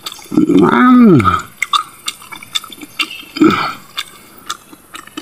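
Close-up wet mouth sounds of eating snail meat: a quick run of smacking and clicking chews. A man's short wordless vocal sound comes near the start and another brief one past the middle.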